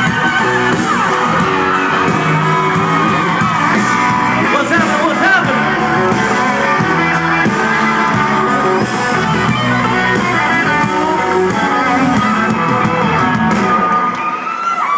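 Live country-rock band with electric guitars and a lead vocal playing the last bars of a song, with crowd yells mixed in. The band stops about a second before the end.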